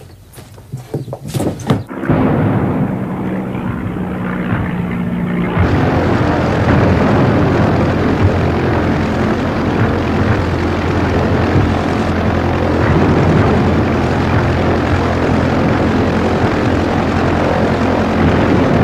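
A few knocks, then from about two seconds in a propeller aeroplane's piston engine runs steadily. It gets louder and fuller about five and a half seconds in.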